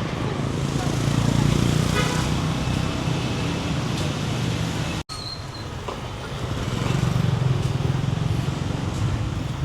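Street traffic: motor vehicles passing with a steady engine hum that swells twice, with a brief horn toot about five seconds in.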